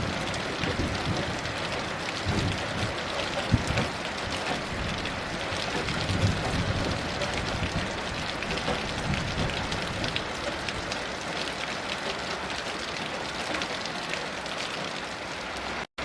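Heavy rain falling steadily, a dense hiss of drops, with low rumbles of distant thunder swelling now and then. The sound cuts out for an instant near the end.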